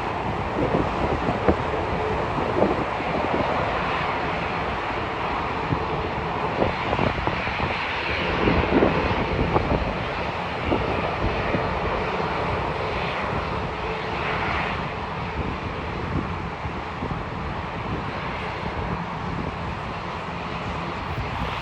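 Jet airliner engines running at high power: a continuous loud jet noise with irregular crackles, easing slightly over the second half.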